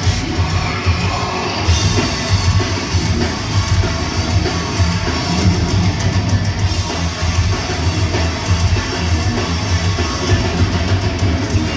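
Thrash metal band playing loudly live: distorted electric guitars over a pounding drum kit and bass, with no break.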